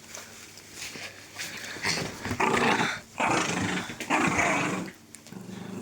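Dog growling in play while tugging and shaking a toy: a low rumble at first, then three longer, louder rough growls from about two seconds in.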